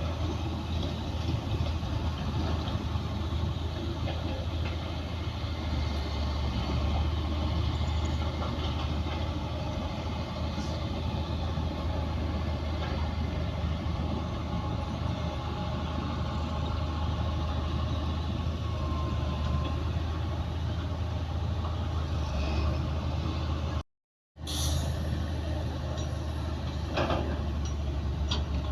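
Bulldozer's heavy diesel engine running steadily with a deep low drone. The sound cuts out briefly about two-thirds of the way through, and a few metallic clanks follow near the end.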